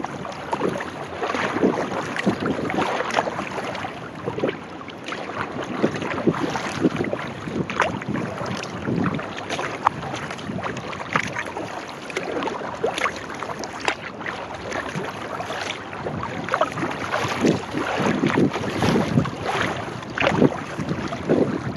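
Kayak paddle strokes splashing and water lapping against the hull, with wind buffeting the microphone.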